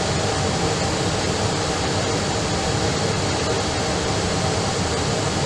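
Steady rushing noise of jet aircraft engines, holding an even level.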